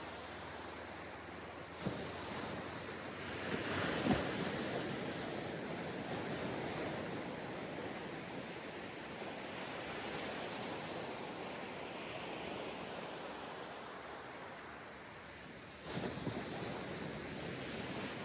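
Sea waves breaking and washing up on a sandy beach, with a few louder breakers, the loudest about four seconds in and another about sixteen seconds in. Some wind buffets the microphone.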